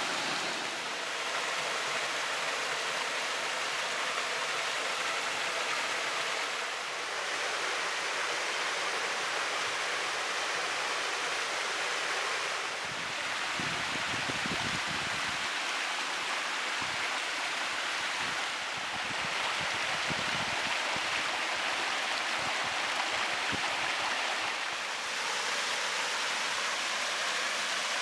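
Steady rush of falling and running water from a waterfall and rocky gorge stream, its flow reduced by a long spell of hot, dry weather. Some low rumbles come and go about halfway through.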